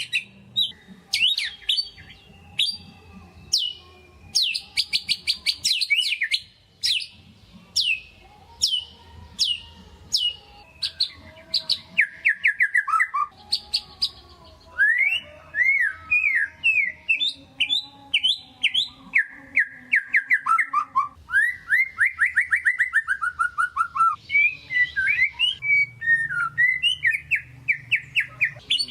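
White-rumped shama (murai batu) singing a fast, varied song: rapid series of sharp downward-sweeping notes and falling trills, broken by brief pauses.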